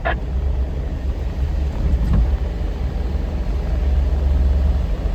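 Vehicle driving along a gravel road: a steady low rumble of engine and tyres, with a faint click about two seconds in.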